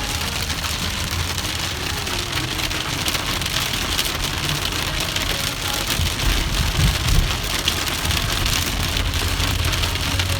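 Heavy rain mixed with small hail pelting down: a steady hiss with scattered sharp ticks. A low rumble swells about six seconds in.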